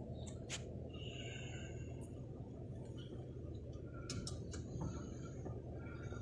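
Steady low hum of a vehicle engine idling, with a few faint clicks.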